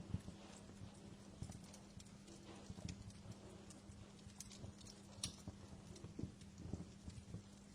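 Wood fire crackling quietly, with irregular small pops and snaps over a faint steady low hum.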